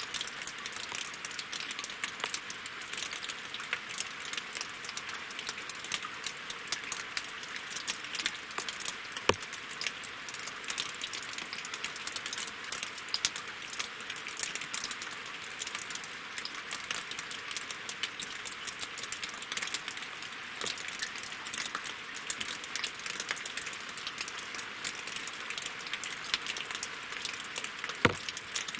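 Steady rain falling on lake water and wet logs, a dense hiss of many separate drop hits. Two heavier single drops stand out, one about nine seconds in and one near the end.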